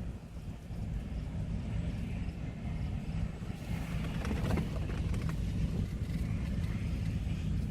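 John Deere combine harvesters running in a soybean field: a steady low engine rumble, with a brief swell of higher machine noise around the middle.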